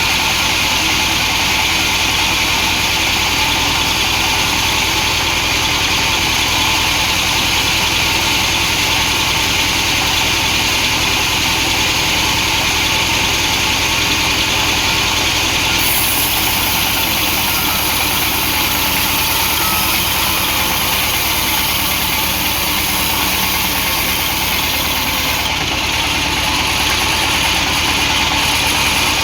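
Large chainsaw running steadily at a constant speed, ripping a hardwood log lengthwise.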